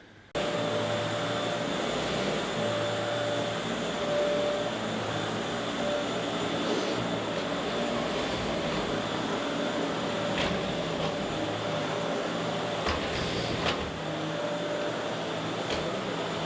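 Vacuum cleaner running steadily over carpet, picking up carpet powder sprinkled as a small-debris test. Its steady drone with a constant whine cuts in suddenly at the start, with a few faint clicks about two-thirds of the way through.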